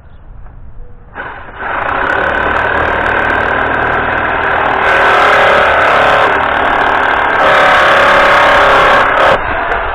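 A power tool's motor running hard in one long run, stepping up soon after it starts and shifting in pitch and load twice before it cuts off near the end.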